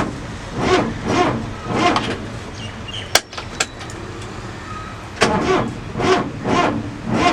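Four-cylinder diesel engine of an old Willys military truck being cranked by its starter, in two spells of slow, rhythmic strokes about half a second apart, with a sharp click between them. The engine does not fire: it fails to start.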